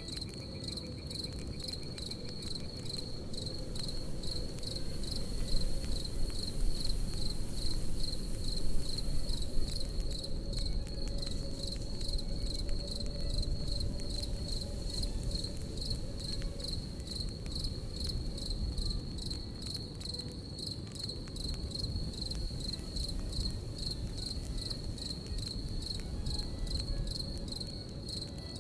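Crickets chirping in an even, steady pulse over the low rustle of a campfire, with scattered small crackles from the fire.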